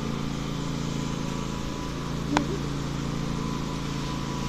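Tractor engine running steadily at an even speed, with a single short click about halfway through.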